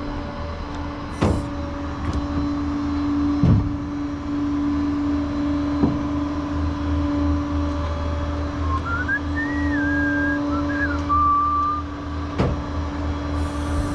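Steady engine and road drone heard from inside a moving vehicle's cab, with a constant hum and a few short knocks. Around nine to twelve seconds in, a short whistle-like tone rises, holds and falls.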